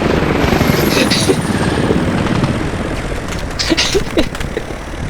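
Quad bike engine running steadily at speed, with a short sharp burst about a second in and another just before the end.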